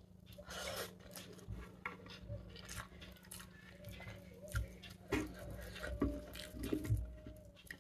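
Someone chewing a mouthful of chicken biryani, with irregular wet mouth clicks, while fingers pick through rice and chicken on a plate.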